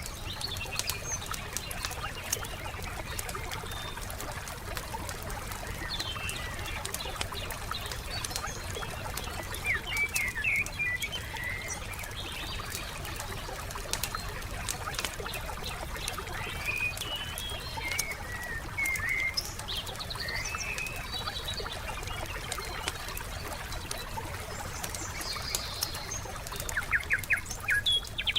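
Wood fire crackling with frequent sharp pops, while small songbirds chirp in short quick bursts, thickest about ten seconds in, around eighteen to twenty seconds, and near the end. Underneath is a steady low wash, in keeping with lapping water.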